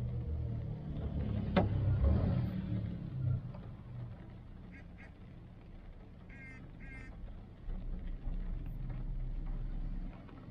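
Rain falling on a stopped car, with a low steady rumble from the idling car. There is a sharp knock about one and a half seconds in, and two short squeaky chirps a little past the middle.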